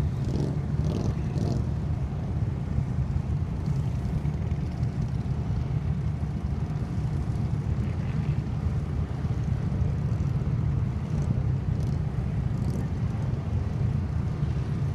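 Engines of Can-Am ATVs and a pickup truck running steadily with a deep, even drone while under load, towing the stuck truck out of mud.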